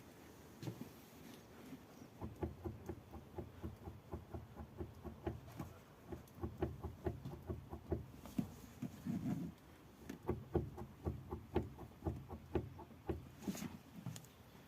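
Dull, repeated knocking from the top mount of a Renault Logan-Sandero's rear shock absorber, about three knocks a second with a short break about nine seconds in. It is the sign of a worn or loose upper shock mount.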